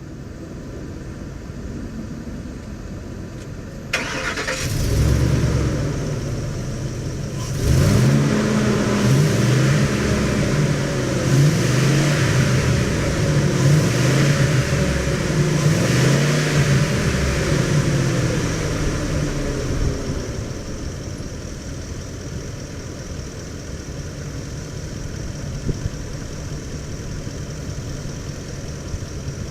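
2011 Ford Super Duty F-250 pickup engine cranking and starting about four seconds in. It is then revved several times over the next fifteen seconds, and settles back to a steady idle for the last third.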